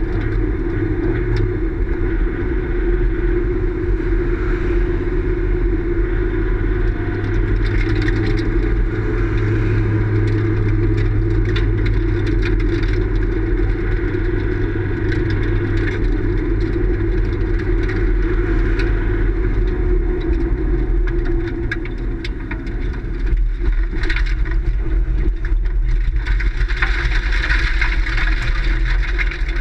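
Race car engine running at steady revs, heard from inside the car. The note changes about two-thirds of the way through, and a louder rushing noise comes in near the end.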